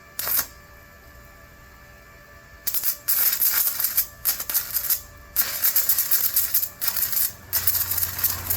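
Stick welding arc: a brief arc strike near the start, then from about three seconds in the steady loud crackle of a flux-coated electrode burning, broken by a few short gaps where the arc goes out and is struck again.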